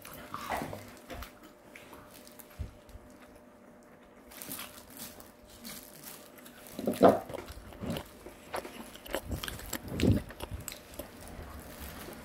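Close-up mouth sounds of a person eating: biting, chewing and crunching, in short irregular strokes. Two louder short sounds come about seven and ten seconds in.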